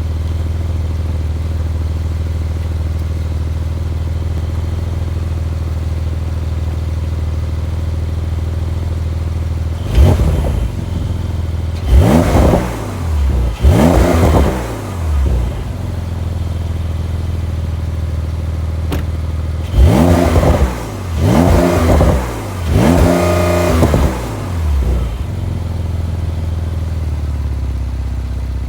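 A Porsche 911 992 Carrera 4S's twin-turbo flat-six idles steadily through its sports exhaust, then is revved in two sets of three quick blips, each rising and falling back to idle. The last blip is held briefly at high revs.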